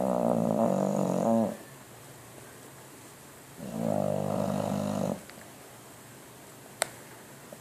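English bulldog snoring in its sleep: two long, pitched snores, each about a second and a half, starting about three and a half seconds apart. A single sharp click comes near the end.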